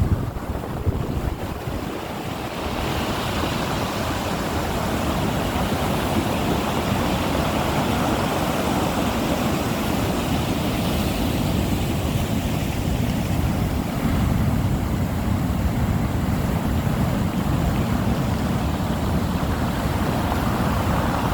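Rough sea: waves surging and breaking in a continuous rush, with wind buffeting the microphone, gustiest in the first couple of seconds.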